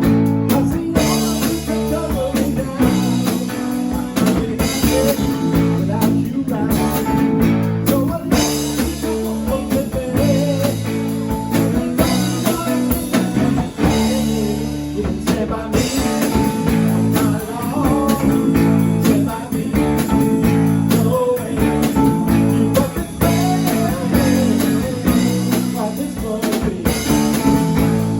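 A rock band playing a song with guitar, bass and drum kit, and a singing voice.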